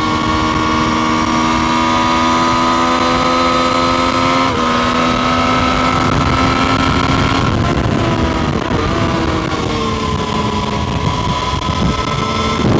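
Triumph Street Triple RS motorcycle's inline three-cylinder engine running under way, its note creeping slowly upward with a brief break about four and a half seconds in, then falling away at about eight seconds before holding steady again.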